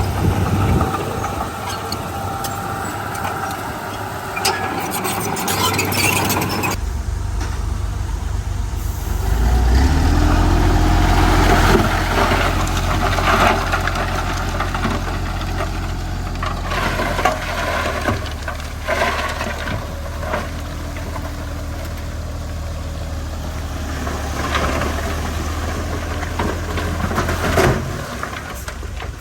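Heavy diesel machinery working: an engine runs loudly throughout, its revs rising about ten seconds in, with scattered metallic clanks and knocks.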